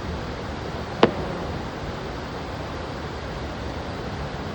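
A single sharp firework bang about a second in, over a steady rushing background noise.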